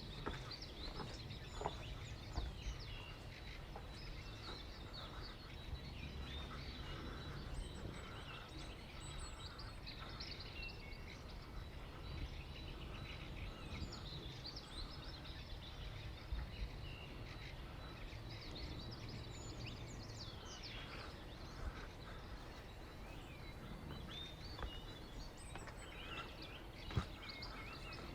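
Birds chirping and twittering, many short quick calls scattered throughout, over a steady low rumble of background noise, with one sharp click near the end.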